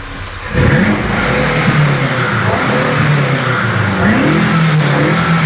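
BMW F90 M5 Competition's twin-turbo V8 running loud through an exhaust with its secondary catalysts and balancer box deleted. It comes in sharply about half a second in and holds, its note wavering up and down.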